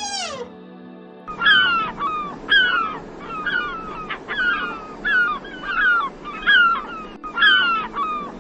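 A series of short animal calls, about one a second, each falling in pitch, over steady background music.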